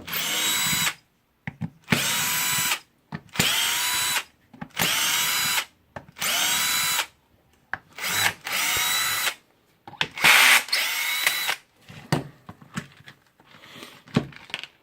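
Electric screwdriver run in short bursts of about a second each, some eight times, each rising quickly to a steady whine as it backs out the screws holding a cordless impact driver's motor housing. Quieter clicks and handling noise follow near the end.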